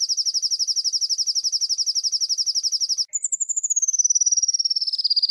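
A small songbird's rapid rolling trill ('tembakan ngerol'), a high, fast run of about thirteen notes a second held at one pitch for three seconds. After a brief break a second trill starts higher and slides steadily down.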